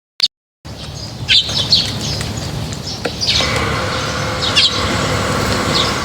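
Small birds chirping in short, sharp calls over background noise, with a steady hum coming in about three seconds in.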